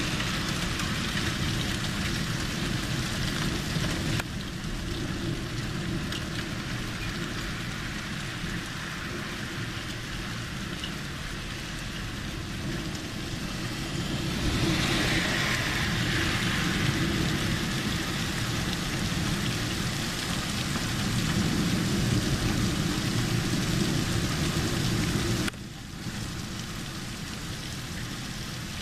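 Rain falling during a thunderstorm, a steady hiss that swells twice and drops off suddenly near the end.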